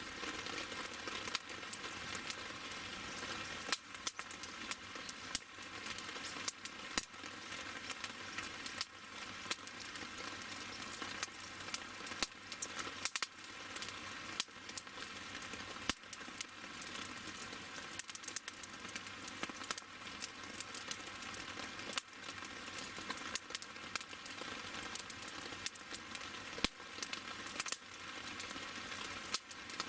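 Wood fire burning, crackling with frequent irregular sharp pops over a steady hiss.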